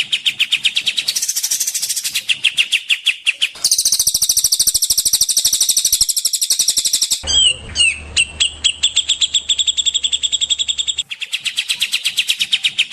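Songbird tutoring (masteran) recording: rapid trilled bird song with many notes a second, made of spliced clips that switch abruptly about every three to four seconds. One stretch in the middle carries a low hum under the song.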